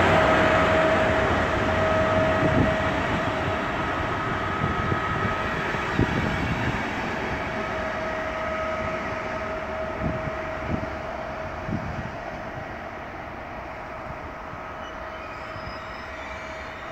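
Electric-hauled train, a locomotive towing a second locomotive and a passenger coach, running past and drawing away. A steady rumble with a held whine, a few sharp knocks of wheels over the rails, fading as it recedes.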